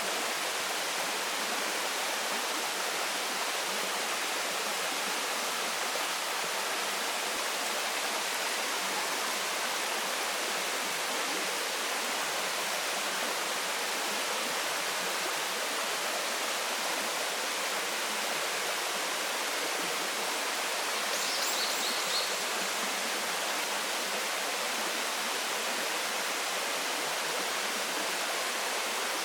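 Waterfall pouring steadily, a constant even rush of falling water. A short run of high chirps sounds about three-quarters of the way through.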